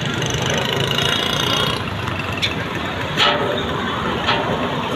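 Road traffic noise with a heavy vehicle's engine running. A few short sharp clicks or knocks sound in the second half.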